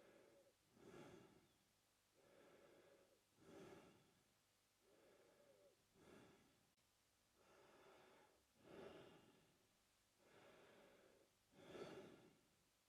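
A man breathing slowly and evenly through his mouth, quiet, with about five in-and-out breaths, one roughly every two and a half seconds. The loudest breath comes near the end.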